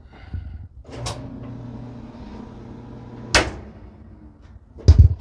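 Clothes dryer running with a steady low motor hum, started by a click, while the drum does not spin. A sharp knock comes about three seconds in and a heavier thump near the end.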